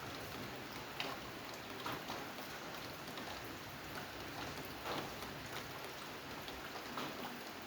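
Steady rain falling, with separate drops striking a surface as sharp taps every second or so over the even hiss.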